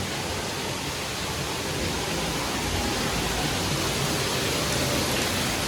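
Water pouring and splashing down all around, a steady rushing hiss that grows a little louder about two seconds in.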